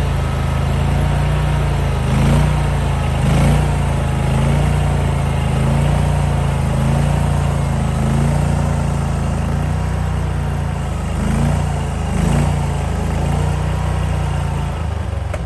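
The AGT Industrial KTT23 stand-on mini skid steer's engine running steadily. Its note lifts briefly a few times.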